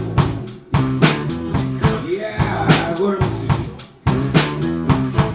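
Live rock band playing an instrumental passage: drum kit hitting on a steady beat under sustained bass and guitar notes, with bending lead notes. Twice the sound falls away and the full band comes back in sharply, about a second in and again about four seconds in.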